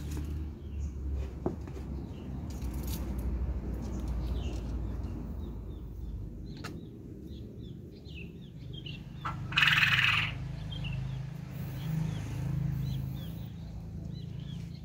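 Birds chirping over and over in short, quick notes above a steady low rumble, with one loud, harsh burst of noise lasting under a second about ten seconds in.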